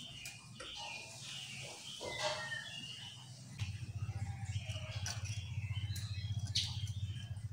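Chestnut-capped laughingthrush giving faint, scattered short calls and chirps. A low pulsing hum comes in about halfway through.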